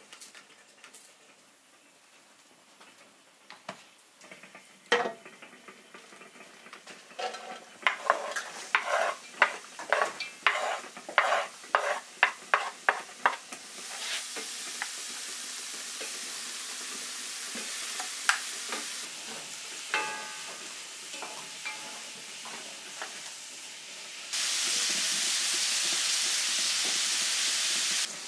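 A run of sharp knocks and scrapes, about two a second, from kitchen utensils working in a pot. Then food starts sizzling in the pot as fat is poured in, a steady frying hiss that turns much louder for the last few seconds before cutting off abruptly.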